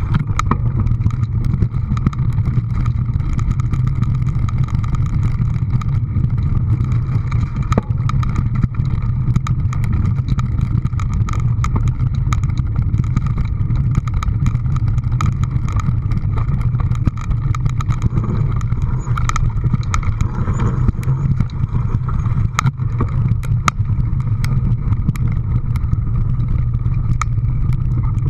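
A steady, loud low engine or machine rumble with scattered sharp clicks and rattles over it.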